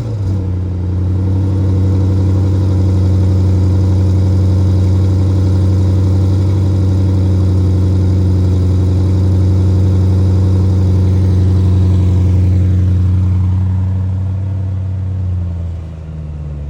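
2024 Porsche Cayenne Turbo GT's twin-turbo 4.0-litre V8 running at a steady, raised cold-start idle. Near the end the idle drops a little lower and quieter.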